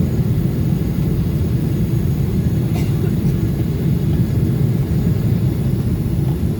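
Steady low roar of cabin noise inside a Boeing 777 during descent, from the jet engines and the airflow over the fuselage. A couple of faint ticks come about three seconds in.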